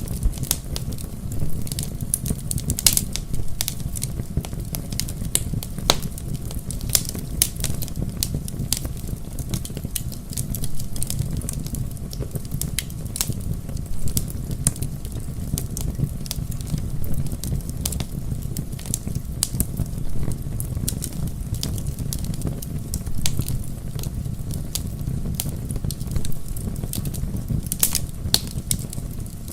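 Bonfire burning: a steady low rumble of flames with frequent sharp crackles and pops from the logs.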